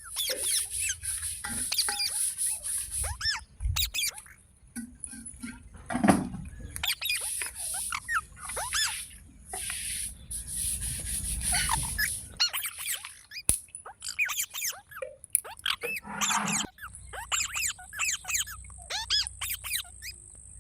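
Green parrot chirping and squeaking: a rapid series of short calls sweeping up and down in pitch, with a louder squawk about six seconds in.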